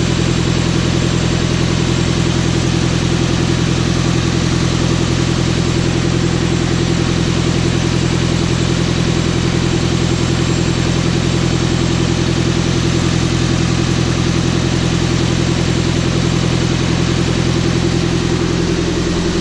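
Nissan KA24DE 2.4-litre four-cylinder engine idling steadily, warming up after a coolant flush with the radiator cap off.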